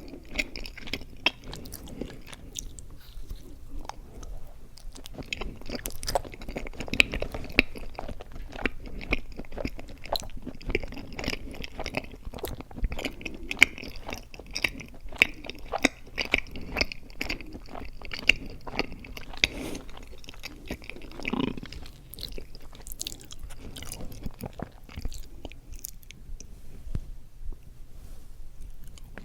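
Close-miked chewing of mochi ice cream: wet, sticky mouth sounds with many small clicks and smacks, and a short pitched sound about two-thirds of the way through.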